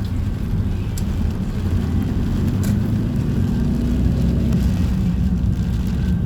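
Heavy rain on a street during a sudden downpour: a steady, loud, low rumbling roar with a few faint clicks.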